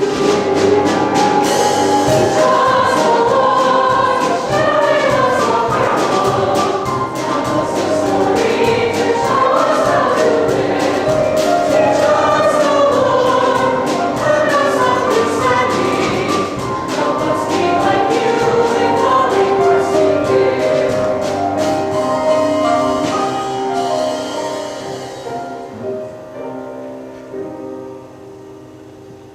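Choir singing with instrumental accompaniment, dying away over the last few seconds.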